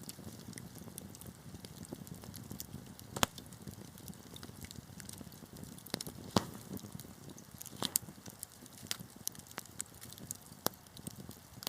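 Wood fire burning in a fireplace: a low steady rush of flame with sharp crackles and pops from the burning logs, scattered irregularly, the loudest about three, six and eight seconds in.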